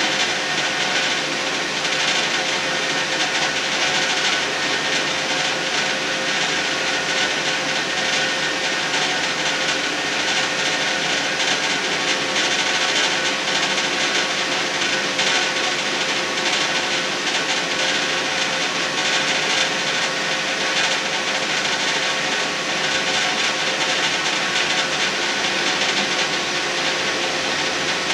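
Running noise of a British Class 158-derived diesel multiple unit travelling along the track: a steady drone of engine and wheels on rail, with a constant hum running through it.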